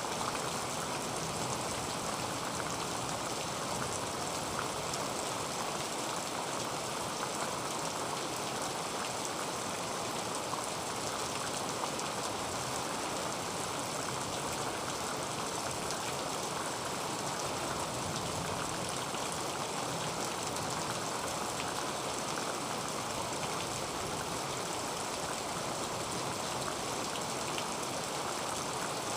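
Heavy rain falling on a tin roof: a steady, dense hiss dotted with many sharp ticks of single drops striking the metal.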